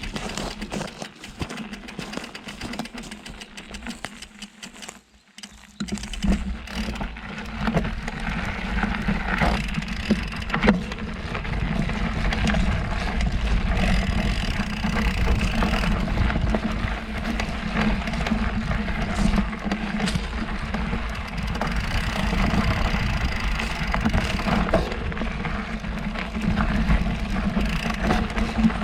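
Mountain bike rolling over a dirt trail: a steady low rumble with scattered rattling clicks that gets much louder about five seconds in, after a quieter stretch of clicks.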